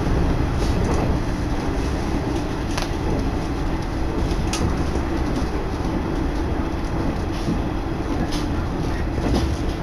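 Inside a diesel railcar under way: a steady engine drone and wheel rumble, with a few sharp clicks as the wheels pass over rail joints.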